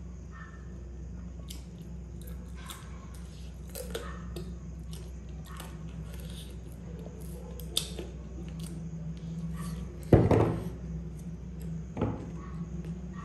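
Close-up eating sounds: chewing and biting on a fried chicken wing, with small clicks and crackles from the mouth and cutlery. A loud sudden thump about ten seconds in, and a smaller one about two seconds later.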